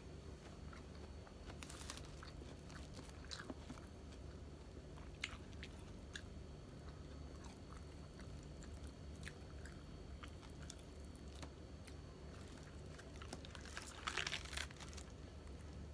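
Close-up mouth sounds of eating fried tilapia: chewing, small bites and clicks. Near the end a louder crisp crunch as lettuce leaves are handled.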